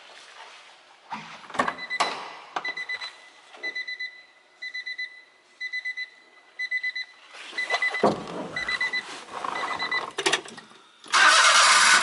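A car's electronic warning chime beeping about once a second, with a few clicks and knocks, then a rising mechanical noise as the Honda Vamos Hobio's turbocharged kei-car engine is cranked and fires up loudly about eleven seconds in.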